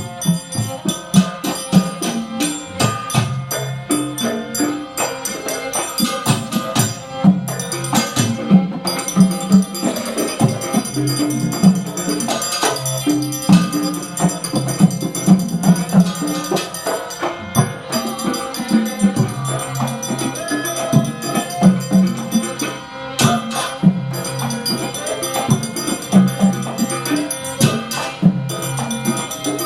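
Live gandrung music from a Banyuwangi ensemble accompanying the dance, with a fast, dense rhythm of drum and jingling percussion strokes over sustained melodic tones.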